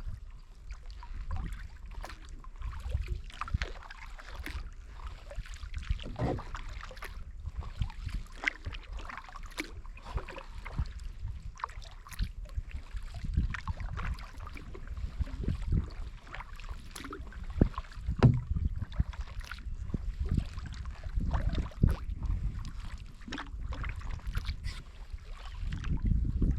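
Kayak paddling: paddle blades dipping and splashing with water dripping and lapping at the hull, over a low wind rumble on the microphone.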